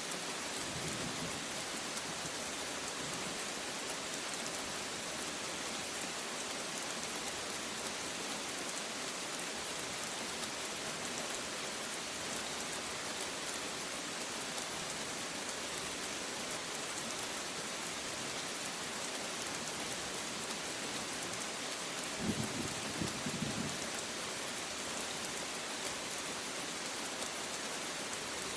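Steady rain falling as an even hiss, with a brief low rumble of thunder near the end.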